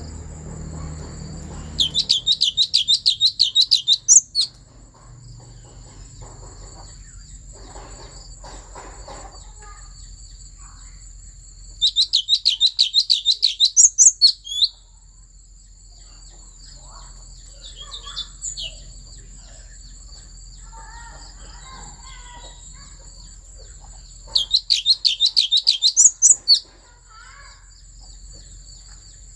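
Thanh tước songbird singing three loud bursts of fast, evenly repeated high notes, about six a second, each burst about two and a half seconds long and ending in a few higher notes. A steady faint high whine runs underneath, with a few softer calls between the bursts.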